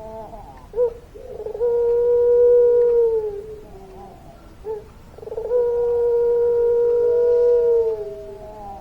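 Puter pelung dove cooing: twice a short note followed by a long, drawn-out, level coo, the second about two and a half seconds long.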